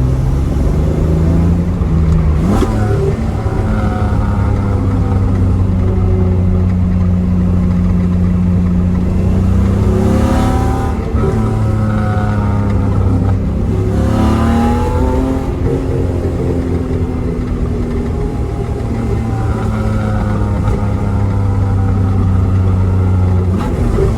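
Modified Datsun L28 straight-six on twin SU carbs running through a Z-Story Race/Sport header and Thrush 17715 turbo muffler while the car is driven: a steady cruising exhaust note that climbs in pitch twice under acceleration near the middle and falls back at each upshift. Something at the rear of the car rattles along with it.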